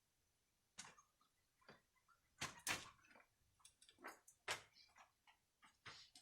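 A series of light, irregular clicks and knocks, about a dozen, spaced unevenly and loudest in the middle.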